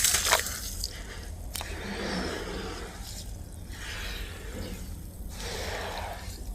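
Dry black sand clumps crumbling into water: a sharp crunch or two near the start and about a second and a half in, then two longer wet, crumbling washes of sound. A steady low hum runs underneath.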